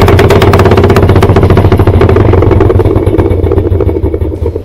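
Old-style Whirlpool top-load washer spinning with a loud, rapid rattling clatter over the motor's hum, easing off near the end. It is the dreadful spin noise that sounds to the repairman like stripped ears on the spin tube, which have worn out the spin (drive) block.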